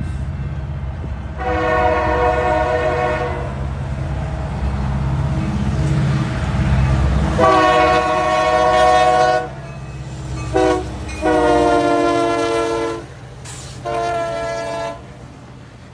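Locomotive horn sounding a series of blasts, four long and one short, over the low rumble of a moving train, which fades away about three-quarters of the way through.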